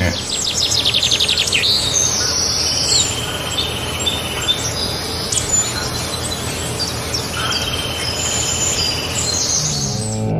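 Songbirds chirping and singing, several overlapping, over a steady background hiss. A fast trill comes near the start, then repeated high chirps and short whistled phrases.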